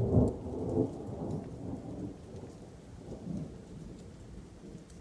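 Thunder: a sudden crack of thunder followed by a deep rolling rumble that swells and fades over several seconds, with rain falling.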